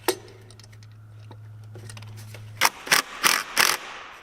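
Hand ratchet wrench being cranked in short rasping strokes, about three a second, beginning a little past halfway, most likely driving down a bolt while refitting an ignition coil. Before that there is a single click and a faint steady low hum.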